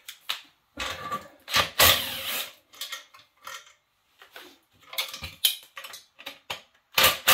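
Irregular metallic clicks, knocks and scrapes of hand tools working inside a seized small Honda engine, as a wrench is fitted to the bottom end. The loudest clanks come about two seconds in and again near the end.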